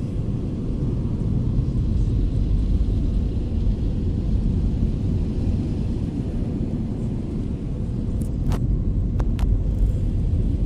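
Automatic car wash machinery heard from inside the car's cabin: a steady low rumble, with a few short clicks near the end.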